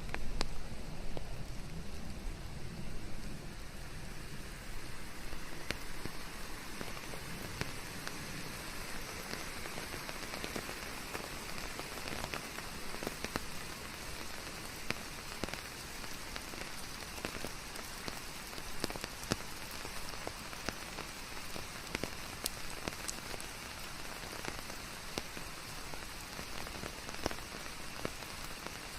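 Steady rain falling on leaves, an even hiss with many separate drops ticking throughout; a little heavier in the first few seconds.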